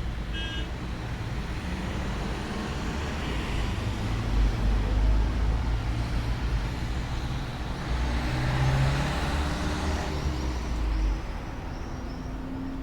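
A motor vehicle passing: an engine rumble that swells over several seconds and drops away about eleven seconds in.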